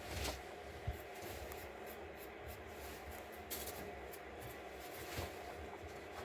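Faint rustling and rubbing, a few soft swishes, with a short low knock about a second in.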